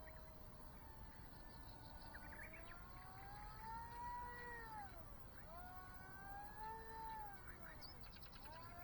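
Faint whine of a small electric RC plane's brushless motor (RCX NK1103, 10000KV) and 3-inch propeller in flight. Its pitch rises and falls in long slow sweeps as the plane flies around.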